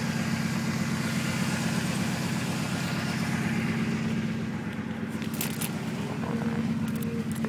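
Car engine idling steadily, with a faint high whistle over it that fades out about halfway through. The owner cannot trace the whistle, though the alternator pulley and the idler pulley/tensioner are new. A few light clicks come in the second half.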